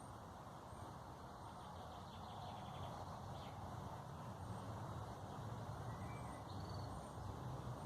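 Faint, high bird chirps and a short trill over a steady low background rumble.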